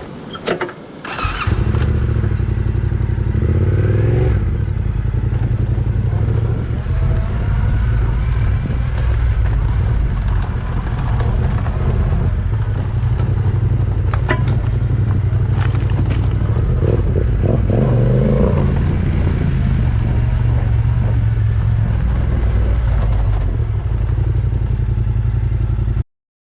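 Yamaha Ténéré 700's parallel-twin engine running loudly under way, its pitch swelling and easing with the throttle a couple of times. It comes in about a second in and cuts off suddenly near the end.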